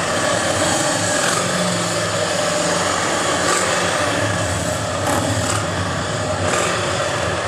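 Several engines running at once: a steady low rumble of Harley-Davidson motorcycles close by, with a distant 2013 Formula 1 car's engine heard over them.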